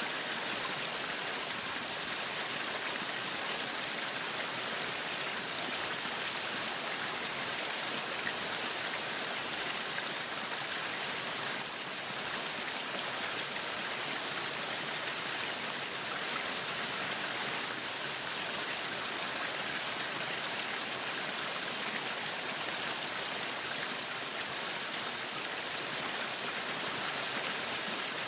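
Meat sizzling on a yakiniku grill, a steady, even hiss.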